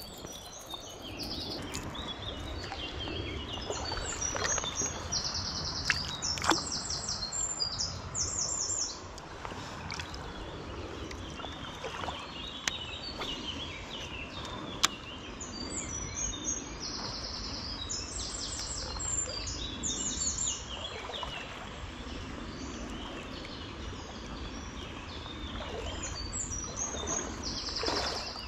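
A songbird singing, repeating a song of quick high notes several times over a steady outdoor background hiss, with a few sharp clicks in between.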